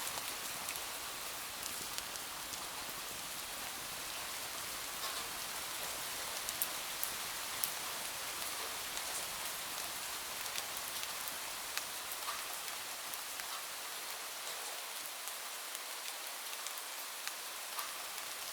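Steady rain falling, an even hiss with scattered sharp little clicks of drops throughout.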